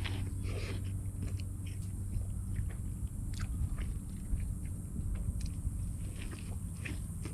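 A person chewing and biting on fries, with small crunches and mouth clicks scattered through, over a steady low hum.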